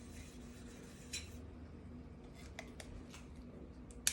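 Faint handling of a plastic protein residue swab test: a brief rub about a second in and a few small clicks, then two sharp plastic snaps at the very end as the test is cracked to release its reagent.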